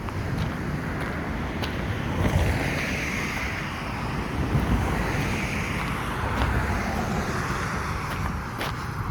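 High surf breaking and washing in, swelling and fading several times, over a steady low rumble of wind buffeting the microphone.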